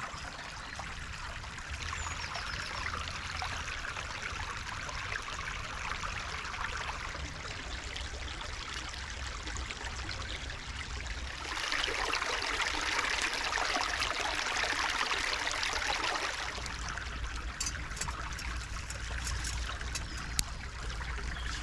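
Small woodland stream running over stones, a steady trickling rush that swells louder for about five seconds in the middle. A few short clicks come near the end.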